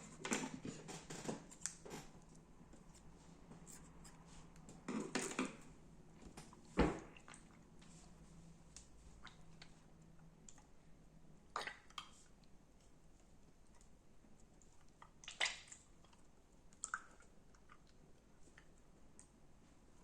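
Slime being squeezed and worked by hand: short clusters of sticky crackles and pops, with a sharper, louder thump about seven seconds in and a few single clicks later.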